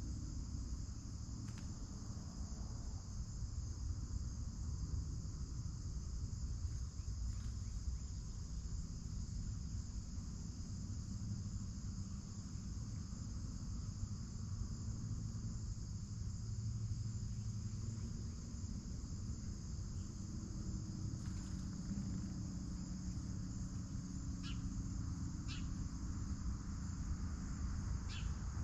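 Steady, unbroken chorus of crickets in a high pitch, over a low outdoor rumble, with a few short chirps near the end.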